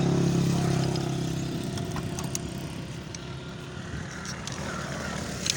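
A motor vehicle's engine running at a steady pitch, loudest at the start and fading away over the first two seconds or so, followed by a few short clicks.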